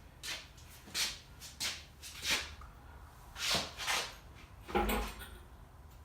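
Irregular short scrapes and clatters, about seven in a row, with a heavier clunk near five seconds in: a pulled engine and its hoist being handled by hand.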